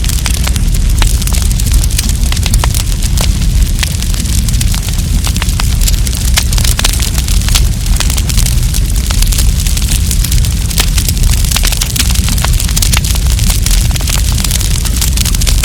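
Wood campfire burning and crackling, with a rapid, irregular stream of small sharp pops over a steady low rumble.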